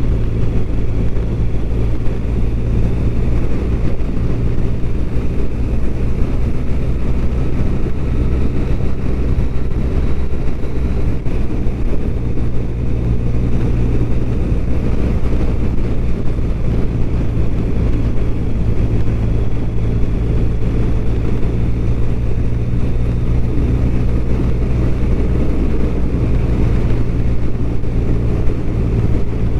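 BMW R1200RT's boxer-twin engine running at a steady cruise, heard from on the bike over a constant road rush. The engine note shifts slightly about eleven seconds in.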